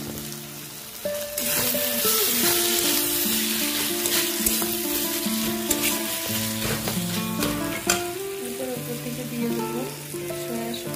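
Chopped onion, capsicum and tomato masala sizzling in hot oil in a kadai, stirred with a spatula that scrapes and clicks against the pan. The sizzle swells suddenly about a second in and stays strong.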